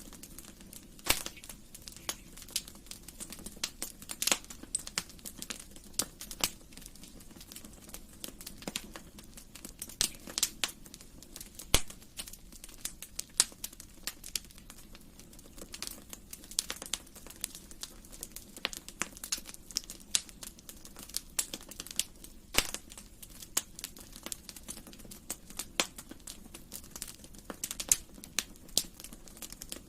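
Fire in a fireplace crackling: irregular sharp snaps and pops, several a second, over a low steady rustle of burning.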